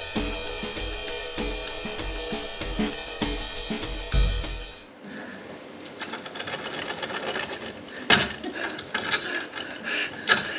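A short music jingle with a drum beat cuts off about five seconds in. It gives way to irregular mechanical clicking and rattling, with two sharp loud clicks near the end, like a key working a door lock.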